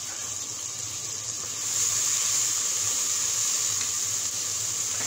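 Onions, tomato and ground spices with ginger-garlic paste sizzling in hot oil in a pot: a steady hiss that gets louder about two seconds in.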